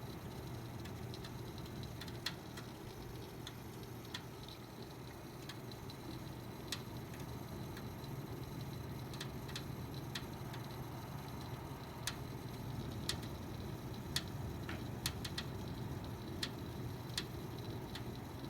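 Computer making a crackling sound: sharp, irregular clicks, roughly one a second, over the steady hum of the machine running.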